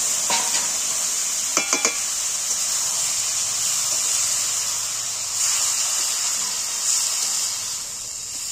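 Radish-greens curry sizzling steadily in a hot metal kadai, just tipped onto a panch phoron tempering fried in oil, while a metal spatula stirs it; a few quick clinks of the spatula on the pan a little under two seconds in.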